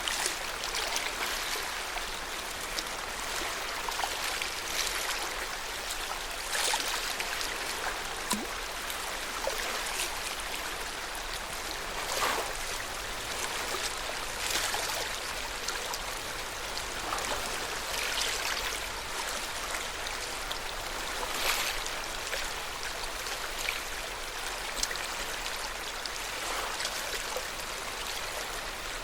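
Lake water lapping steadily, with small splashes every second or two.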